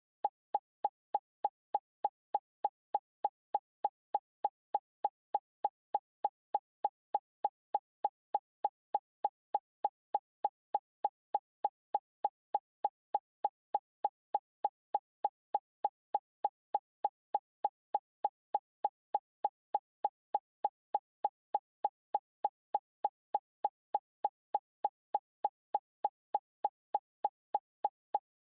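A short electronic plop repeating at an even pace, about three a second, each one identical, like a looped sound effect or beat.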